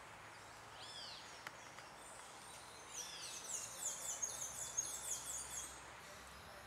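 Forest ambience: a faint steady hiss with birdsong. An arched high call that rises and falls repeats every couple of seconds, and a quick run of high, short, falling chirps fills the middle few seconds.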